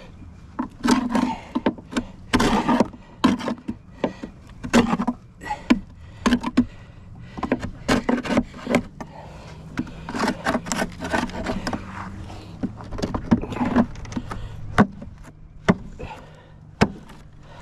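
Wooden beehive boxes and frames being handled: a quick irregular run of sharp knocks and clacks, some with brief scraping.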